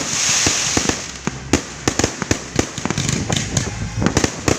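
Fireworks going off: a hissing crackle in the first second, then a rapid, irregular run of sharp bangs and pops.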